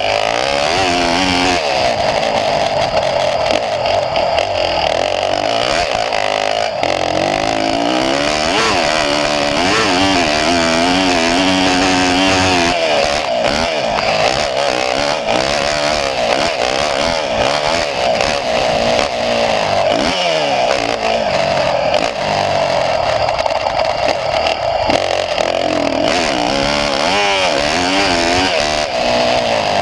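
A small engine running continuously, its revs rising and falling again and again.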